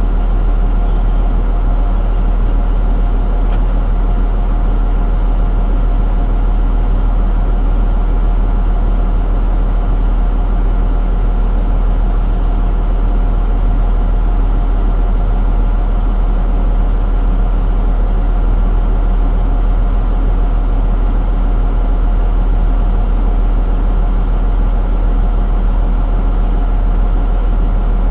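Truck engine idling, a constant low hum that holds steady without revving or change.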